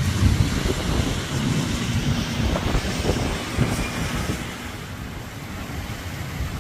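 Rainstorm ambience: a steady hiss of rain with a low, uneven rumble underneath that eases off after about five seconds.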